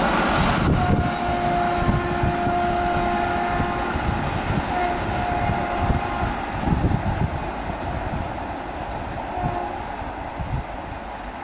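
A train running with a rumble and wheel clatter and sounding its horn: one long blast about a second in, then two shorter ones a little later and a brief one near the end. The train grows fainter toward the end.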